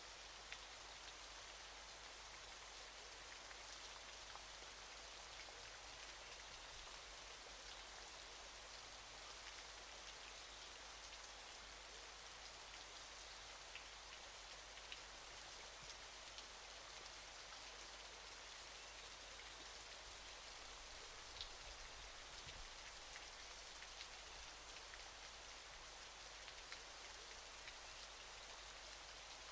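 Faint, even hiss of falling water spattering down, with scattered small drip-like ticks.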